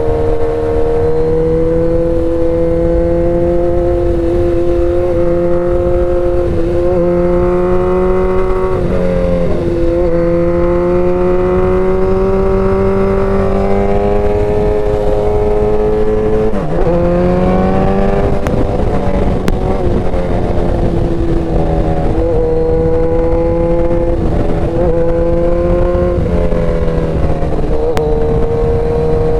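Suzuki Hayabusa's inline-four engine running under way, its pitch climbing slowly and dipping sharply a few times before climbing again, over wind noise.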